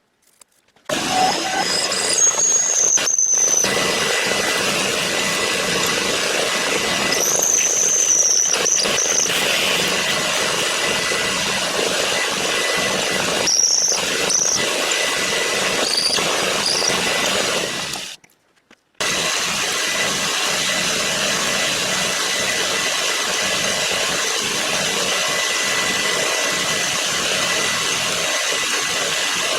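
Power machine tool cutting metal, a steady running noise with brief high-pitched squeals from the cut several times. The sound drops out briefly twice.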